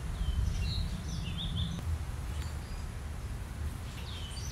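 A bird calling in two short bouts, about half a second in and again near the end: a downward-swooping note followed by a few quick high chirps. A low steady rumble runs underneath.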